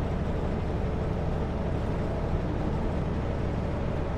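Semi-truck cruising at highway speed, heard inside the cab: a steady diesel engine drone mixed with tyre and road noise.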